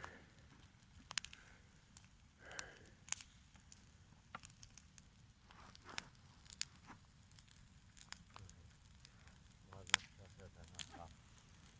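Wood bonfire burning, with irregular sharp crackles and pops from the burning firewood.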